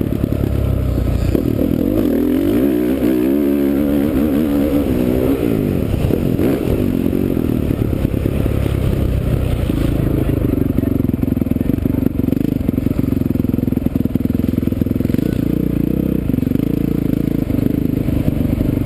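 Honda CRF450R's single-cylinder four-stroke motocross engine running under the rider, revving up and down several times and then holding a steadier note in the second half.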